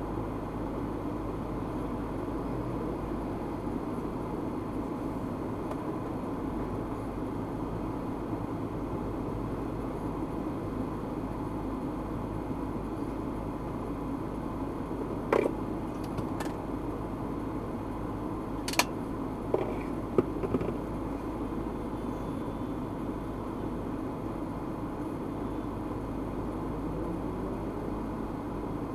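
Steady road and engine noise of a car driving, heard from inside the car. About halfway through there are a few sharp clicks and knocks, five or so over several seconds.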